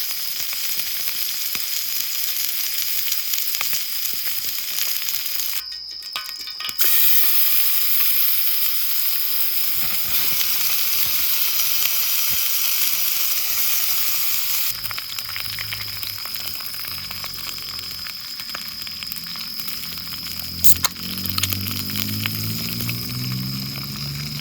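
Food sizzling as it fries in a pan, a steady hiss. From about fifteen seconds in, liquid pours into a container, its tone rising as it fills.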